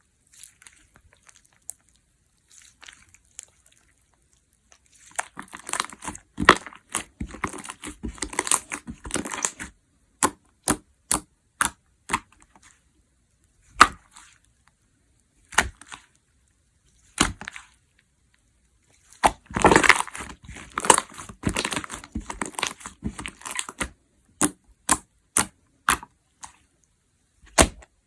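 Jiggly slime being squished and stretched, giving dense stretches of crackling interspersed with single sharp pops and clicks, separated by short pauses.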